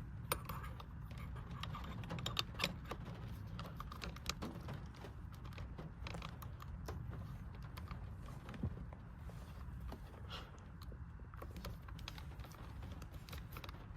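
Irregular small clicks and taps of a plastic paddle shifter extender being handled and pressed back onto the steering wheel paddle, over a low steady rumble.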